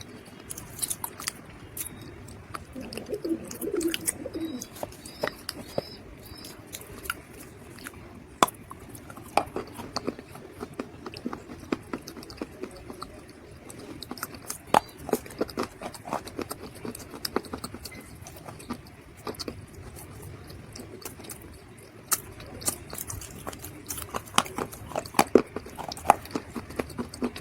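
Dried mud being crushed, a long irregular run of crisp crunches and crackles that come thicker in several spells.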